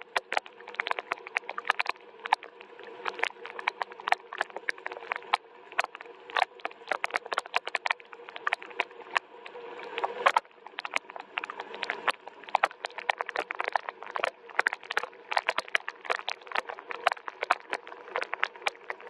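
Rain falling, heard as many separate drops tapping irregularly and densely, several each second, over a soft steady wash.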